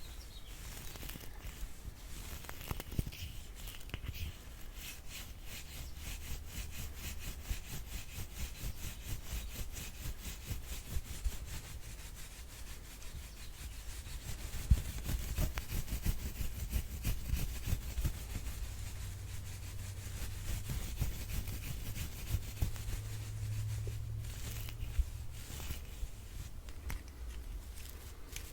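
Soft brush bristles rubbing in many quick, repeated strokes, a dense scratchy swishing with some low rumble underneath.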